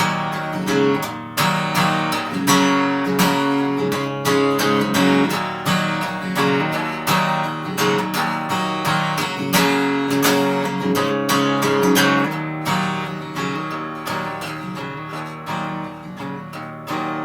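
Instrumental break in a folk song: acoustic guitar strumming chords steadily, with no singing.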